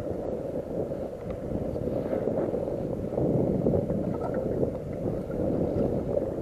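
Wind buffeting the microphone, a low rumbling noise that gets louder about three seconds in.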